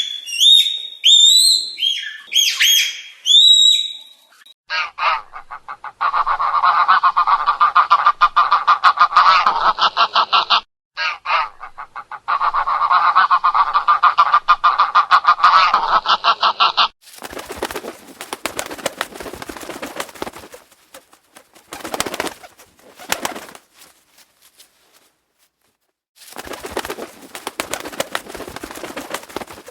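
Birds calling. A few high, gliding chirps in the first four seconds are followed by two long runs of fast, buzzy, rapid-fire calls lasting several seconds each. Quieter, rougher calls come in short bursts near the end.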